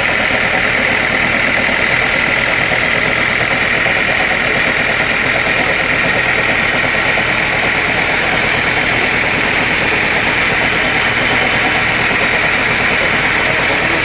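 Sawmill machinery running steadily, a constant engine-like drone with an unchanging high whine over it.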